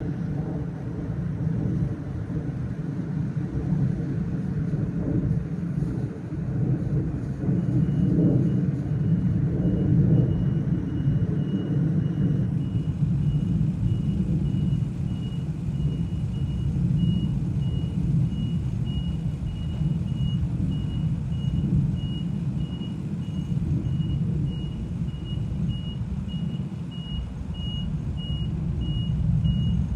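A vehicle's reversing alarm beeping steadily, about one and a half beeps a second, starting about a quarter of the way in, over a constant low rumble.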